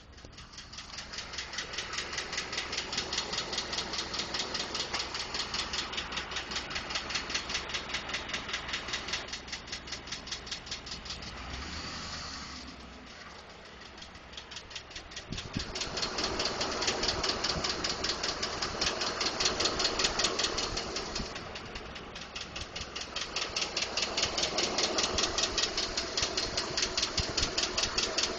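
2012 Ford F-150's 5.0-litre V8 engine running with a fast, even ticking knock that grows louder and fainter several times. The owner has been told it is normal engine noise, from the injectors or the fuel pump.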